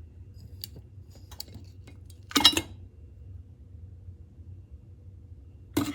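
Teapot and its lid or infuser being handled: a few light ticks, then one louder clink that rings briefly about two and a half seconds in, and another knock near the end.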